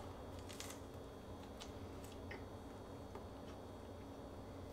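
Faint chewing: a few soft, irregular mouth clicks as a bite of fish taco in a flour tortilla is eaten, over a low steady room hum.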